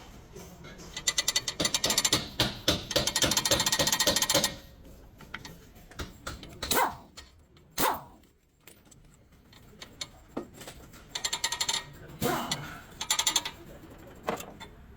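Ratchet wrench clicking in two fast runs of evenly spaced clicks, a long one near the start and a shorter one near the end, with a few single knocks between.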